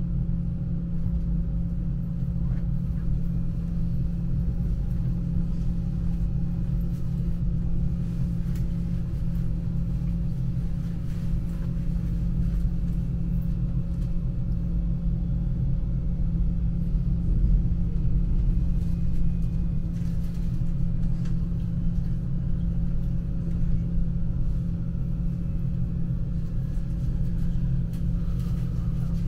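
S-Bahn train running along the track, heard from inside the carriage: a steady low rumble with a constant hum.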